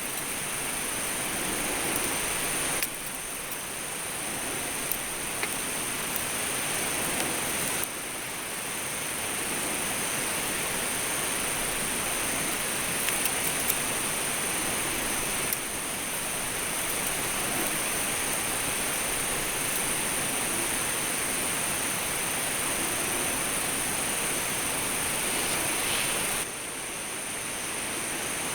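Steady hiss-like noise with a few faint pops, stepping up or down in level at several cuts.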